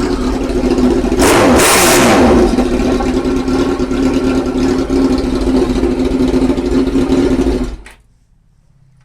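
Suzuki GSX-R1000 K3 inline-four running loud with its exhaust end can removed: idling, revved once sharply about a second in, then idling again until it is switched off and cuts out suddenly near the end.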